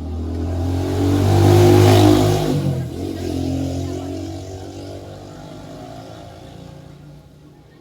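A vehicle engine running, growing louder to a peak about two seconds in, dropping in pitch, then fading away gradually.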